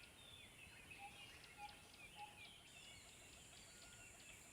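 Faint background of birds chirping in a nature ambience: many small chirps, with three short whistled notes a little over half a second apart about a second in, over a steady high hiss.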